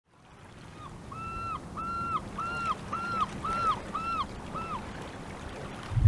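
A bird calling a run of about eight short, evenly spaced notes, each rising and then dropping in pitch, over a steady low rumble. The sound fades in over the first second.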